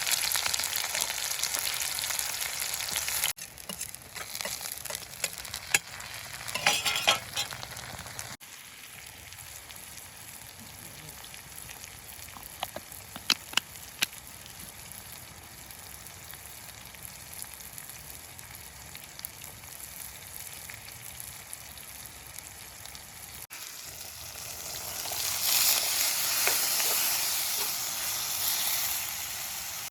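Food frying in a pan, sizzling, with stirring and a few sharp clicks of a utensil. The sizzle is loud at first, drops sharply a few seconds in, stays low through the middle and swells again near the end.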